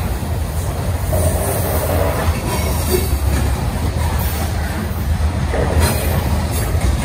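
Covered hopper cars of a grain train rolling past: a steady, loud rumble of steel wheels on rails, with a few sharp clicks spread through it.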